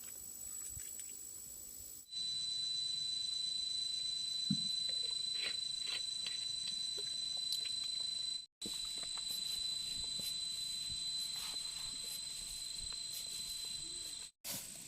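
Steady, high-pitched insect trilling with scattered light ticks and taps. The sound breaks off abruptly twice.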